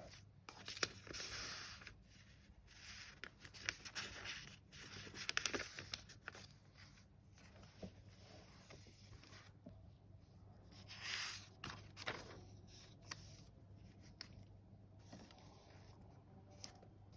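Paper pages of a handmade junk journal being turned and handled, rustling in several short bursts with small taps, then mostly still for the last few seconds, over a faint low hum.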